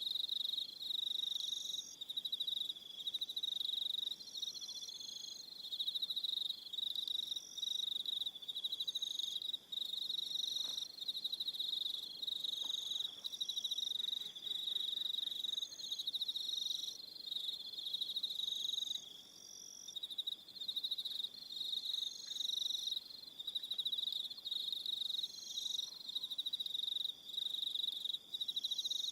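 Evening chorus of crickets: a steady, fast pulsing high trill, with shorter higher chirps from other insects repeating about once a second over it.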